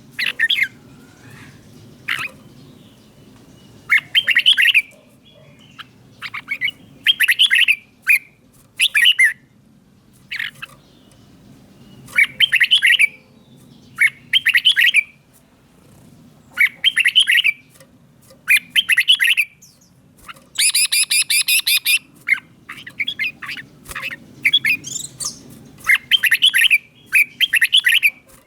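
Red-whiskered bulbul singing: short, bright phrases repeated every second or two, with one longer, buzzier phrase about twenty seconds in.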